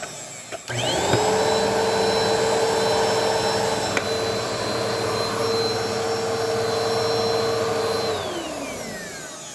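Bissell PowerForce Helix upright vacuum cleaner switched on, its motor whine rising quickly to a steady high pitch. It runs for about seven seconds, then is switched off and winds down with a falling whine.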